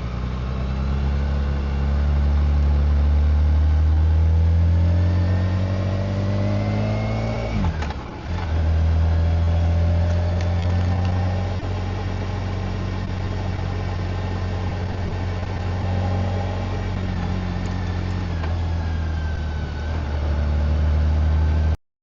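BMW K1600GT's inline-six engine and exhaust under way, its pitch rising steadily through the revs until a gear change about eight seconds in drops it, then running on at steady cruising revs. The sound cuts off abruptly near the end.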